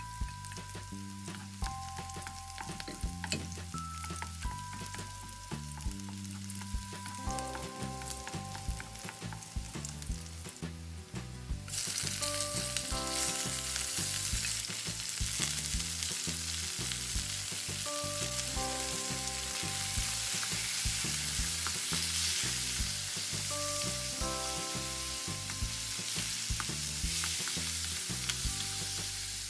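Chopped onion and garlic crackling and sizzling in hot oil in a wok. About twelve seconds in, cubes of raw pork belly go into the pan and the sizzle turns much louder and steadier as the pieces are sautéed and stirred with a wooden spatula.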